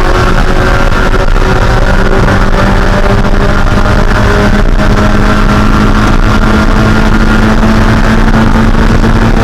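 Mazda Spec Miata's 1.6-litre four-cylinder engine running steadily at high revs under racing load, its pitch stepping up slightly about four seconds in.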